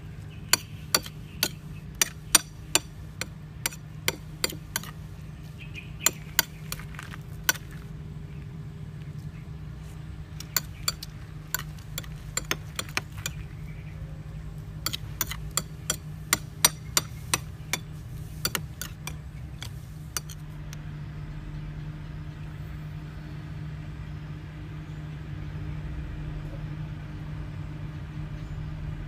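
Repeated sharp clinks of utensils against dishes, coming in irregular runs for about the first twenty seconds and then stopping, over a steady low hum.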